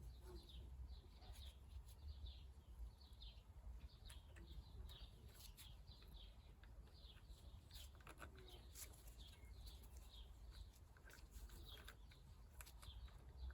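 A small bird chirping faintly and over and over, with short high notes about two a second, under a low background hum and a few faint clicks.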